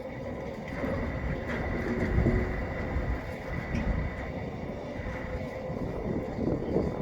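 Long container freight train rolling past, its wagons giving a steady low rumble with a few sharp clicks from the wheels.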